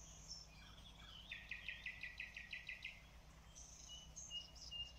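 Faint birdsong: a rapid trill of about seven notes a second, followed by a run of short, high whistled notes.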